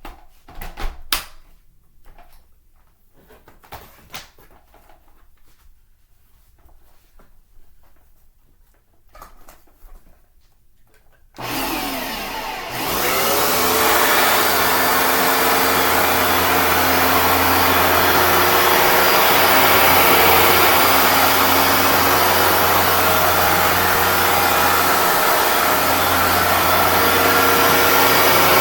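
A few clicks and handling knocks, then about eleven seconds in a Hoover Dual Power Max Pro (FH51010) carpet cleaner switches on: its motor spins up with a rising whine and settles into a loud, steady run.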